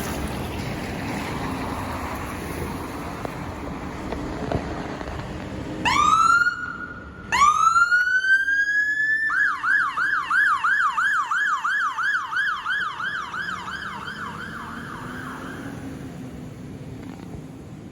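Emergency vehicle siren starting up about six seconds in: two rising wails, the first cut short, then a fast up-and-down yelp about twice a second that fades out. Steady street traffic noise runs underneath.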